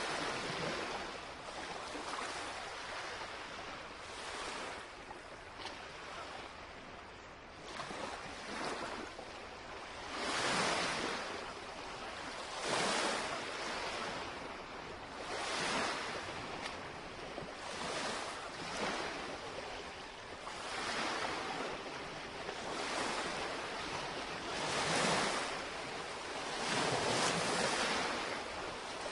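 Small lake waves lapping and washing against the shoreline, surging in soft swells every two to three seconds.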